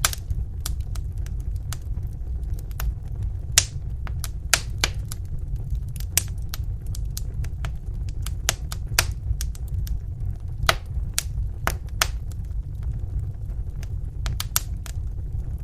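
Wood fire in a fireplace burning, with a steady low rumble and many sharp, irregular crackles and pops.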